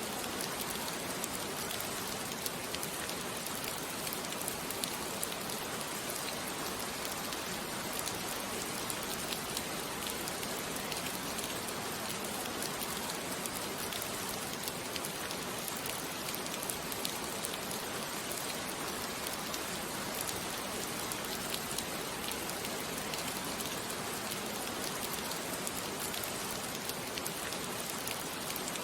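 Steady rain falling on a surface, with many small drop ticks.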